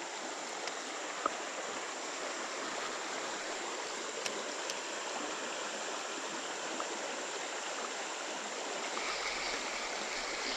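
Small creek's water running steadily, an even rushing hiss, with a couple of faint ticks early on top of it.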